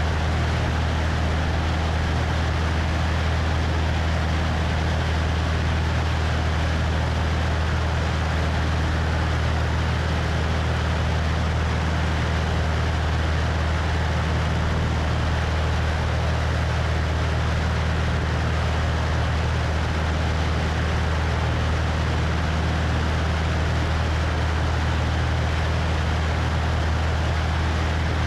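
Cessna 172 engine and propeller in flight, a steady low drone heard from the wing, with constant wind rushing over the microphone.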